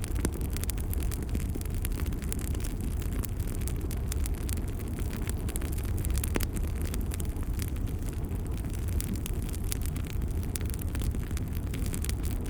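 Wood fire crackling in a fireplace: a steady low rumble of flames with many small, sharp pops and snaps scattered throughout.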